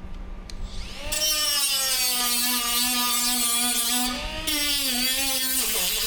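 Handheld power tool spinning up about a second in and running at high speed with a steady whine, its pitch dipping briefly as it is loaded near the end.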